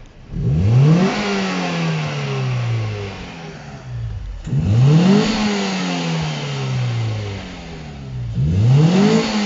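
Car engine revved three times, each rev climbing quickly and then sinking slowly back toward idle, while it is run through a hydrogen decarbonizing treatment to burn off carbon deposits.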